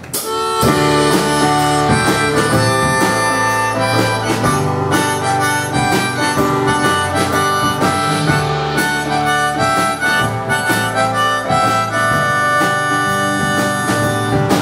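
A band playing the instrumental intro of a pop-rock song, with sustained held notes over strummed guitar and drums.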